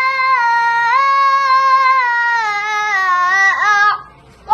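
A child's voice chanting Quranic recitation, one long melodic note drawn out and stepping slowly down in pitch with ornamented turns. It breaks off for a breath about four seconds in and starts again at the very end.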